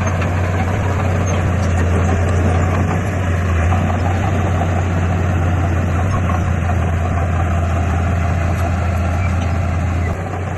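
Heavy construction machine's diesel engine running steadily with a strong low hum, dropping slightly in level near the end.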